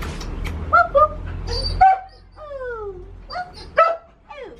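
Dog whining and yipping: a run of short high yips with a few long whines that slide down in pitch about halfway through and again near the end.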